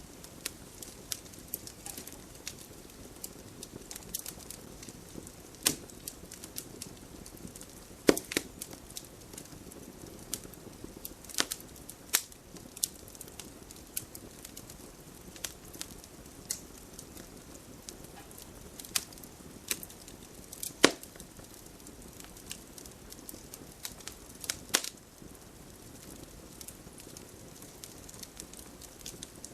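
Campfire burning, wood crackling and popping at irregular intervals over a soft steady hiss, with a few louder snaps.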